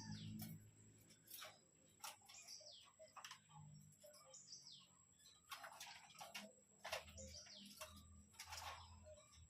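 Faint bird chirps: short high notes falling in pitch, scattered among sharp clicks.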